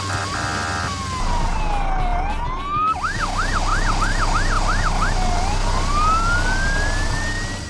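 Cartoon fire truck siren over a low engine rumble: a slow wail falls and rises, switches to a rapid yelp of about seven quick sweeps, then goes back to a slow rising wail. A short horn note sounds at the very start.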